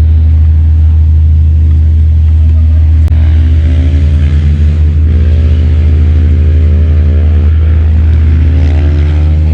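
Vehicle engine running over a heavy, steady low rumble, its pitch rising and falling a few times as the revs change, with a single click about three seconds in.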